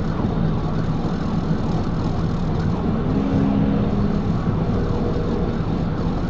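Pursuing police car running at highway speed of about 90 to 100 mph, heard from inside the cabin: a steady rush of engine, tyre and wind noise with a constant low hum. A short low tone sounds briefly a little past three seconds in.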